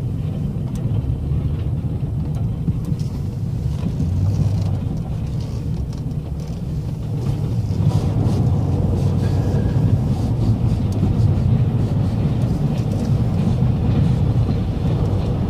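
Plow truck's engine running steadily while its plow blade scrapes over a thick layer of ice; it grows a little louder about halfway through.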